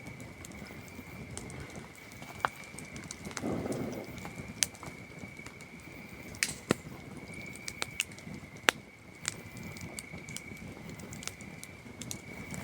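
Wood campfire crackling, with irregular sharp pops and snaps scattered through it and a brief soft rush of flame about three and a half seconds in. A steady, unbroken high trill of night crickets runs underneath.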